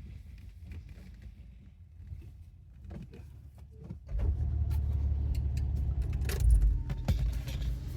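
Car engine starting up suddenly about four seconds in and then running steadily at idle, with scattered clicks and rattles over it.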